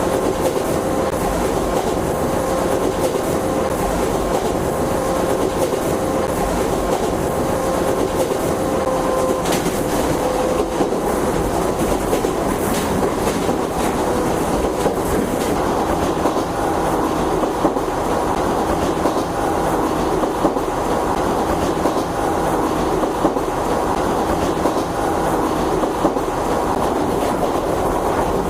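JNR 101 series electric train running: a steady rumble of wheels on rail with occasional clicks, under the whine of its traction motors and gears. The whine changes pitch partway through, one tone fading about a third of the way in and another coming in about halfway.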